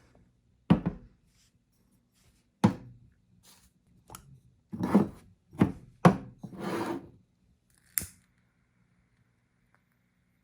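A series of knocks and short rubbing scrapes of objects being handled against wood, eight or so separate sounds with pauses between them.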